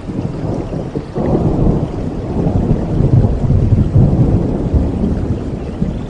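Thunder rumbling in a rainstorm: a deep rolling rumble that swells about a second in and keeps rolling, over steady rain.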